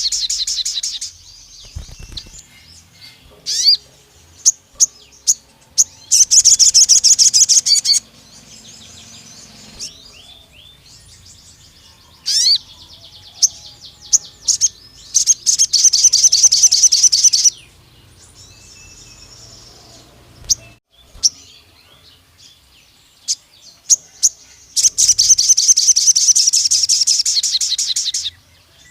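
A sogon songbird singing in long, rapid, high-pitched trills of fast repeated notes, four bursts each lasting two to three seconds, with short single chirps in the pauses between them.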